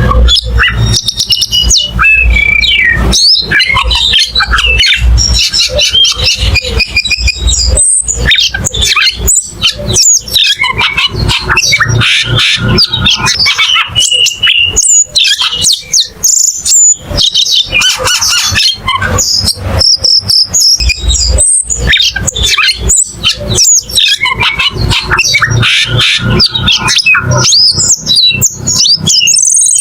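Cucak keling singing without pause: a fast, varied run of chirps, whistles and sweeping notes, over a low rumble.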